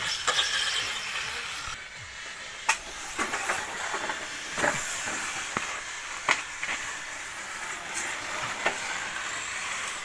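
1/10-scale front-wheel-drive RC rally cars racing on dirt: motors whining up and down in pitch with the throttle over a steady hiss of tyres on loose dirt, with three sharp clicks or knocks.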